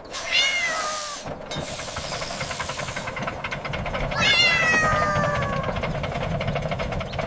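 A cat meowing twice, each meow falling in pitch: a short one at the very start and a longer one about four seconds in, over a steady rushing noise.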